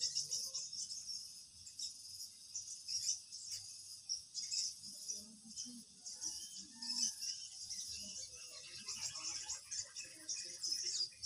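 Steady, high-pitched insect chirring of fast, flickering pulses, with faint low sounds scattered through the middle and later part.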